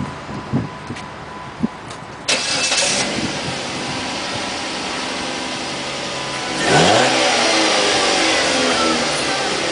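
Dodge Caliber's four-cylinder engine starting about two seconds in through its stock exhaust and settling into a steady idle, then revved once, rising and falling back to idle. A couple of light knocks come before the start.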